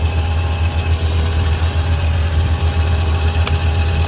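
An engine idling steadily: a deep, even hum with a few faint steady tones above it.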